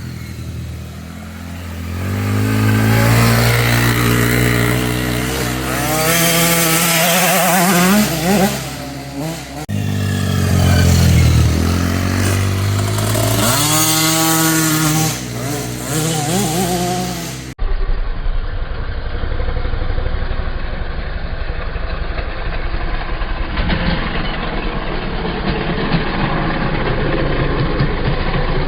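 Dirt bike engine accelerating hard, its pitch climbing and dropping with the gear changes in two runs. About two-thirds of the way through, the sound switches abruptly to a steadier, duller engine running.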